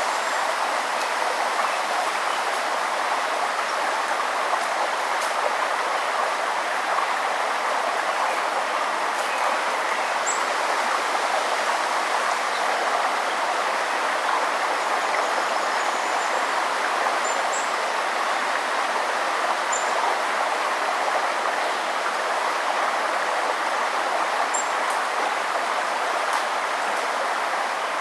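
Steady rushing of a flowing river or stream, even and unbroken, with a few faint, brief high bird chirps now and then.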